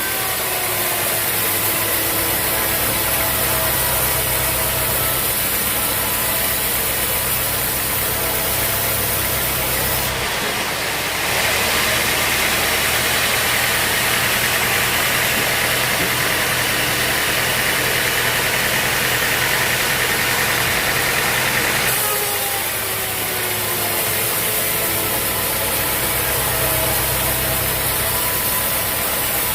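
Sawmill machinery with an engine running steadily. From about ten seconds in to about twenty-two seconds a louder hiss joins it, as a saw cuts into the log. Falling whines near the start and again after the cut.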